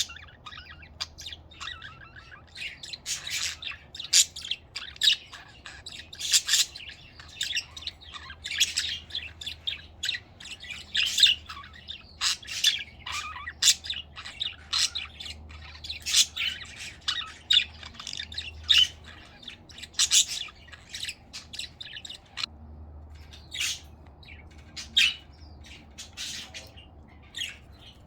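Budgerigars chattering: a steady run of quick chirps, squawks and warbling calls, thinning out in the last few seconds.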